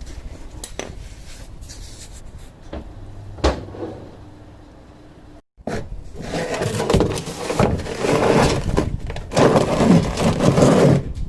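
Objects being handled and moved: scattered clicks and a sharp knock, then, after a brief cut-out, several seconds of louder rubbing and scraping.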